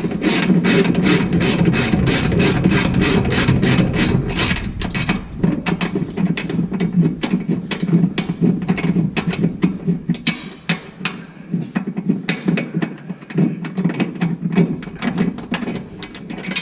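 Hand ratchet clicking as a transmission mount bolt is turned out, a steady run of about four clicks a second that becomes sparser and more irregular about ten seconds in.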